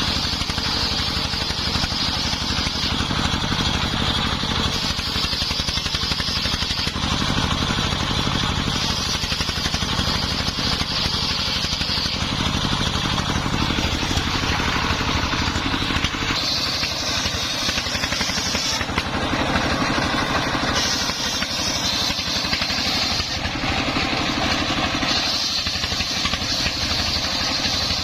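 Single-cylinder Dongfeng 24 hp diesel engine running steadily under load, driving a homemade circular saw. A high whine from the blade cutting timber comes and goes every few seconds as the boards are fed through.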